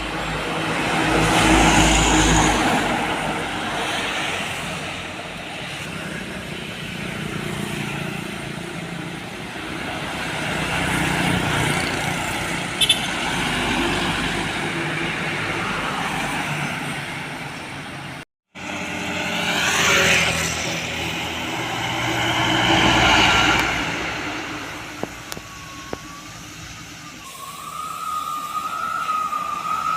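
Heavy road vehicles passing one after another, each pass swelling in loudness and fading away. Near the end a single wavering, siren-like tone comes in and holds.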